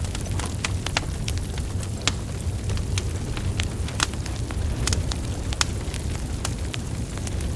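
Burning wood logs crackling and popping, with sharp irregular snaps several times a second over a steady low rumble of flames.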